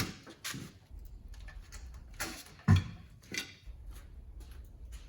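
Workshop handling noises: a few short hissy scrapes and knocks as things are picked up and moved, with one loud thump about two and a half seconds in, over a low steady hum.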